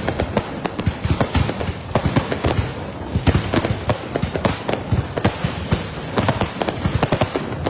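Aerial fireworks display: a dense barrage of shells bursting, many sharp reports a second with no let-up.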